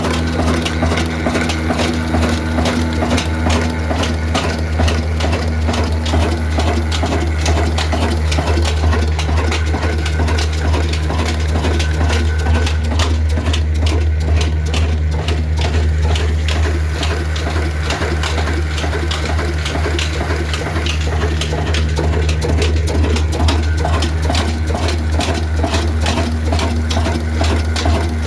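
Old diesel engine running at a steady speed, with an even, rapid rhythmic knock over a deep hum.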